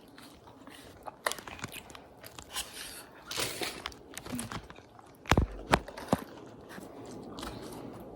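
Close-miked eating: a person biting and chewing food, with small crackly clicks throughout. Two sharp knocks, the loudest sounds, come a little past halfway.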